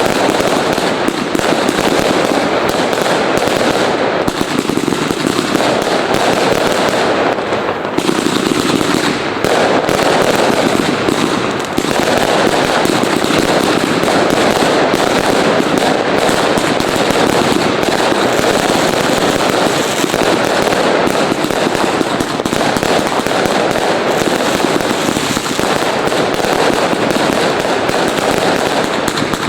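Many fireworks and firecrackers going off at once without a break, the bangs and crackles running together into one continuous barrage.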